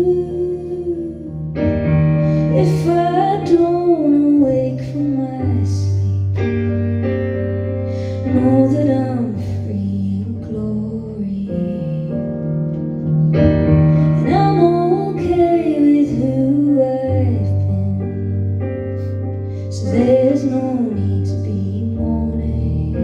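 Live music: a woman singing a slow ballad melody over sustained piano chords, with the low notes changing every few seconds.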